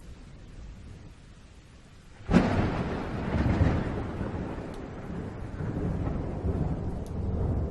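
Thunder: a faint low rumble, then a sudden sharp crack a little over two seconds in, followed by a long rolling rumble that swells and ebbs.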